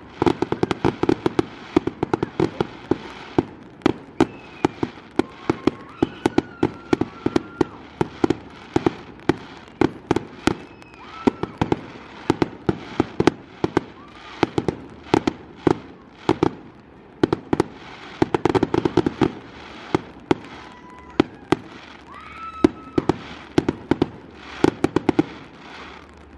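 Aerial fireworks bursting in a rapid string of sharp bangs, several a second, with a few short whistles among them.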